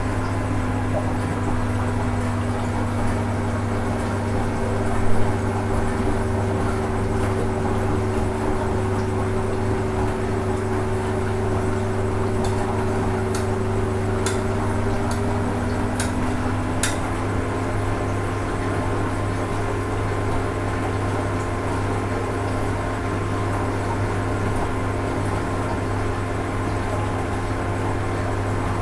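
Hoover Ecologic 800 automatic washing machine running on its rinse cycle: a steady motor hum whose pitch shifts slightly about halfway through, with a few light clicks.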